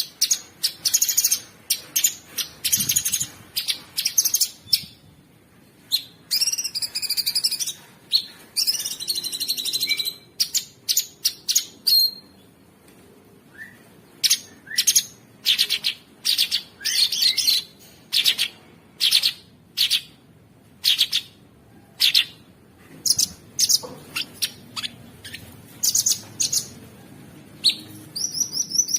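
Cucak sungkok songbird singing a fast, busy string of sharp chirps and harsh notes, broken by a few longer warbling trills.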